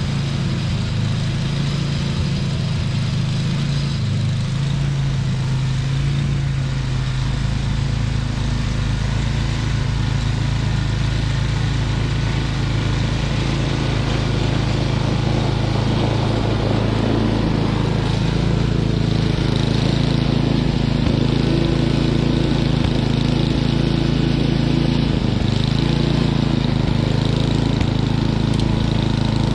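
Snowblower's small gasoline engine running steadily, its pitch shifting slightly a few times.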